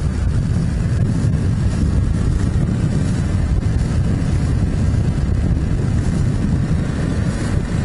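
Steady, loud low rumble of vehicle and road noise, with no single engine rising or falling out of it.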